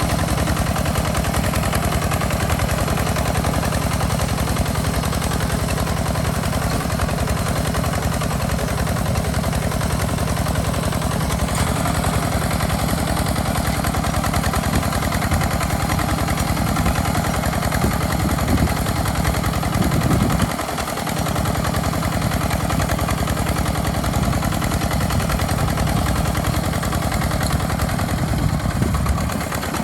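Tractor engine running steadily with a rapid, even knocking chug. The sound dips briefly about two-thirds of the way through, then carries on as before.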